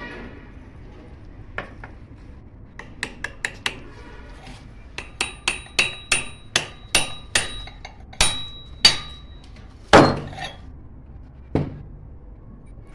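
Hammer tapping on metal parts of a small water pump: a series of sharp strikes, quickening in the middle, some with a faint metallic ring, the heaviest blow about ten seconds in.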